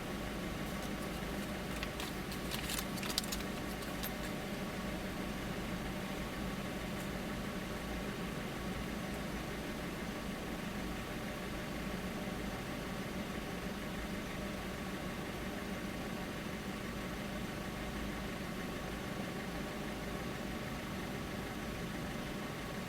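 Car engine running steadily at low revs, heard from inside the cabin as a low, even hum, with a few faint clicks about two to three seconds in.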